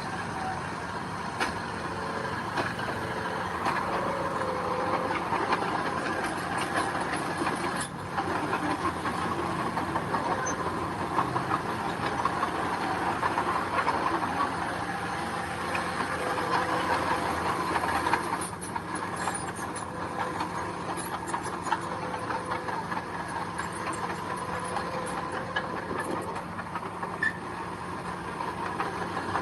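Heavy diesel earthmoving machinery, a bulldozer or dump truck, running steadily: a continuous engine drone with scattered rattles.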